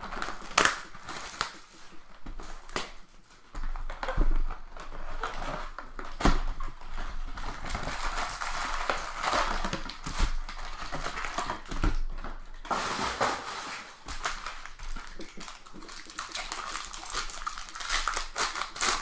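A sealed box of trading-card packs being opened by hand: cardboard flaps and foil pack wrappers tearing and crinkling, with irregular clicks and snaps as the packs and cards are handled.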